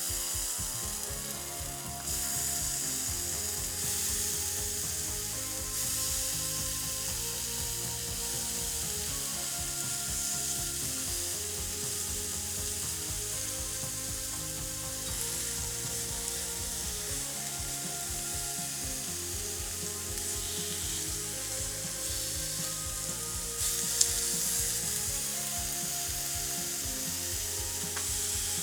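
Chicken thigh pieces sizzling and crackling in a frying pan, under background music. There is a single sharp click about three-quarters of the way through.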